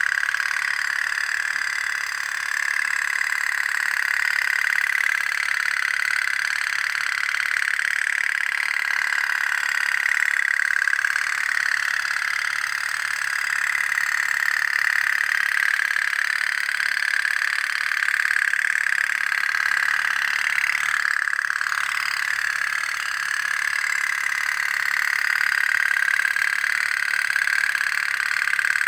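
Toy pop-pop boat (otok-otok) running, its candle-heated water-jet engine putting out a steady, unbroken popping buzz with a slightly wavering pitch.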